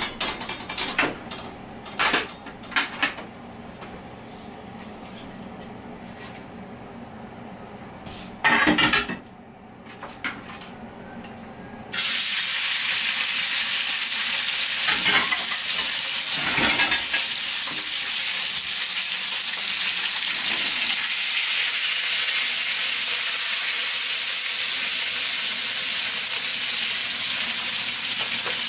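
A few knocks and clatters of kitchen utensils, then a sudden loud, steady sizzle as thin pork loin strips hit hot vegetable oil in a wok.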